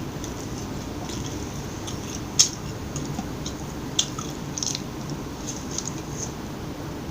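Close-miked chewing and biting of McDonald's fast food, with small crisp crunches and sharp mouth clicks scattered over steady chewing, the loudest click about two and a half seconds in.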